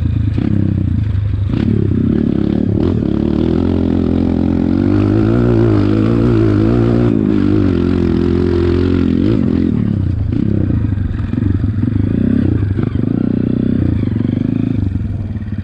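Dirt bike engine running under throttle, its pitch rising and falling. It turns rougher and more uneven near the end, with a few clattering knocks along the way.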